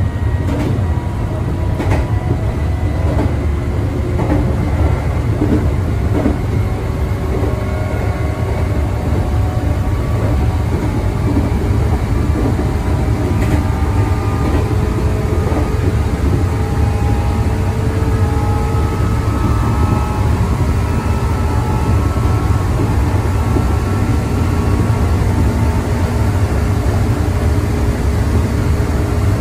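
Meitetsu electric commuter train running, heard from inside the carriage: a steady low rumble of wheels on rail, with a few clicks in the first couple of seconds and a faint whine that slowly rises in pitch.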